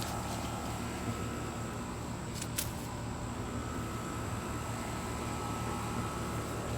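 Steady low mechanical hum, with a faint click or two about two and a half seconds in.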